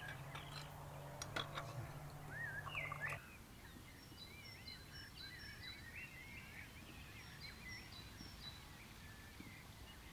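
Birds chirping and singing in many short, quick, rising-and-falling notes. A low steady hum with a few sharp clicks runs underneath for the first three seconds or so, then stops suddenly.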